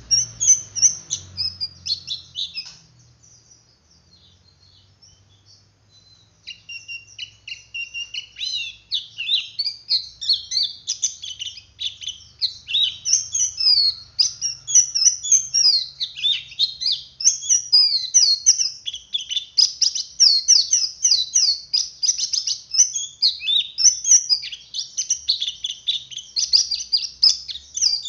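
Male white-eye (pleci dakun) singing its rapid, high 'ngeriwik' twitter. After a short burst it pauses for a few seconds, then chatters without a break for the rest.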